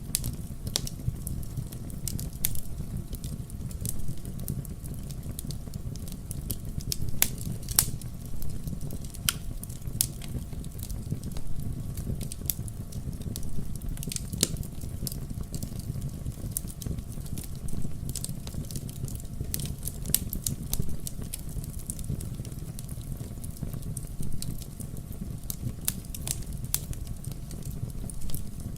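Fire burning in a fireplace: a steady low rumble with frequent sharp crackles and pops at irregular intervals, a few of them louder, around two, seven to eight and fourteen seconds in.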